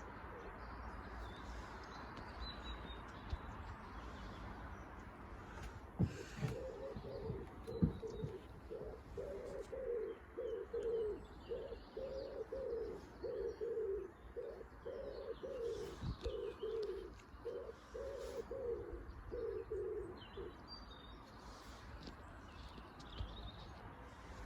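A pigeon cooing: a long run of low, rhythmic coos that starts about six seconds in and stops at about twenty seconds. Faint small-bird chirps sound in the background.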